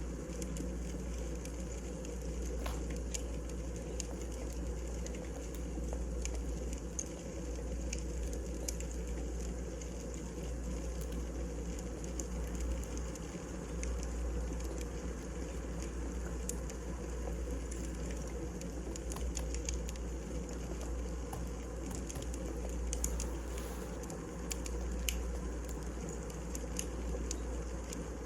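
Wood fire burning, with scattered small crackles and pops over a steady low rumble.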